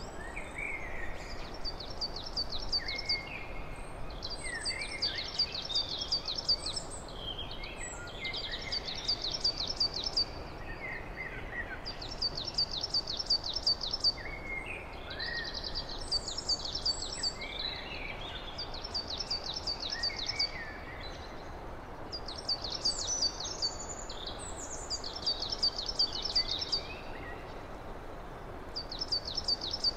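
Songbirds singing: one bird repeats a short, very fast high trill about every two to three seconds, while others add scattered lower chirps, over a steady background hiss.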